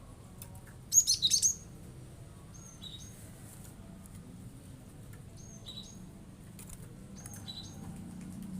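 Cinereous tit (gelatik batu) calling: a loud rapid-fire burst of high notes about a second in, then a few short, high two-part calls spaced well apart.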